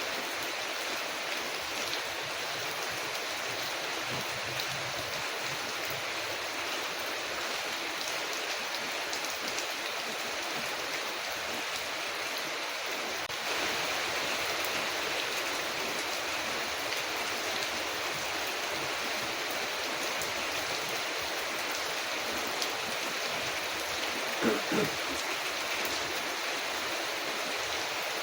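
Steady rain falling on a window, with a wood fire crackling as faint scattered clicks; the rain gets a little louder about halfway through. Two brief louder sounds come about three-quarters of the way through.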